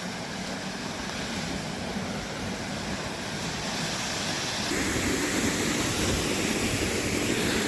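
Waterfall rushing steadily, a little louder about two-thirds of the way through.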